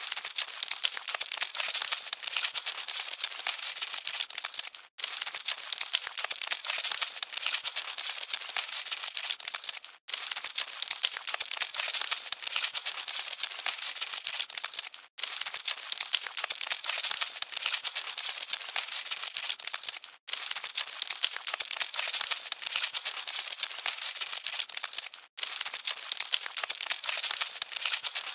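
Cockroaches scuttling: a dense, high crackling and scratching rustle. It plays as a short loop that cuts out for an instant about every five seconds.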